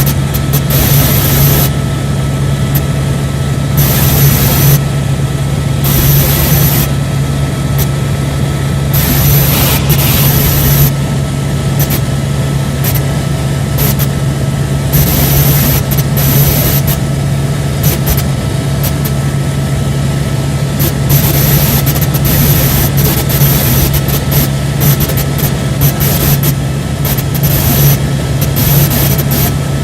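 Helicopter in flight: the turbine engine and rotors make a loud, steady low drone with a few fainter steady tones above it.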